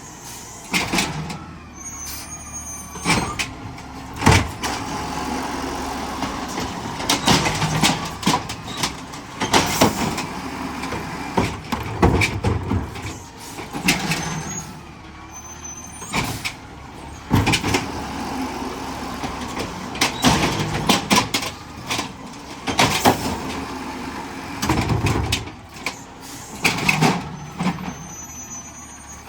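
Garbage truck running, with a steady engine hum and repeated loud bangs and clanks every second or two.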